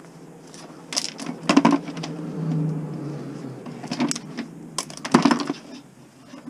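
Plastic and wire of Christmas light strings being handled and worked apart for scrap: irregular clicks, snaps and rattles, in two louder clusters, about a second in and again about four to five seconds in.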